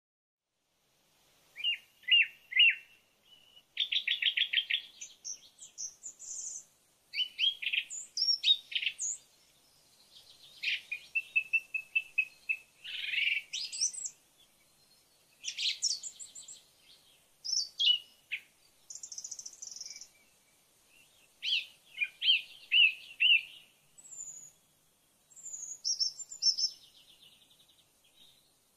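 A songbird singing in short, varied phrases of high chirps, repeated notes and trills, each phrase a second or two long with short pauses between.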